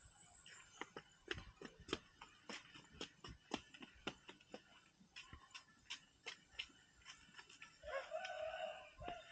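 A string of irregular sharp clicks and taps, then a rooster crowing once for about a second near the end.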